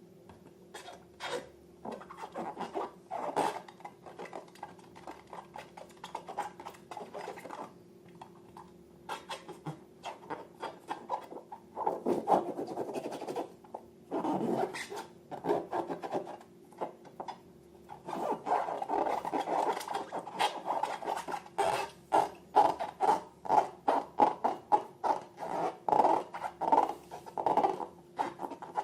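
Slime being squished and worked by hand, giving sticky, crackly pops and clicks: scattered at first, then in a dense, rhythmic run through the second half.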